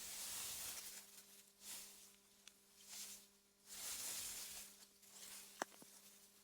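AI-generated ambience of wind through meadow grass: faint rustling gusts that swell and fade several times, over a low steady hum. A sharp click about five and a half seconds in.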